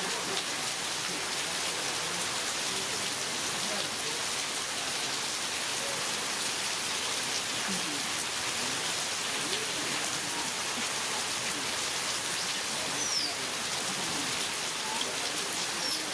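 Heavy rain falling steadily: a dense, even hiss. A few faint, short high-pitched calls sound over it.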